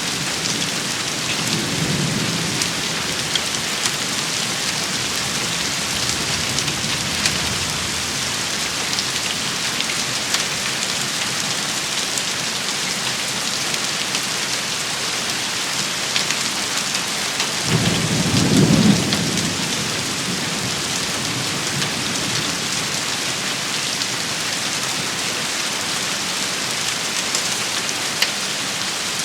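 Steady heavy rain shower falling on surfaces, with many fine ticks of drops, and a low rumble of thunder about two-thirds of the way through, with a fainter rumble near the start.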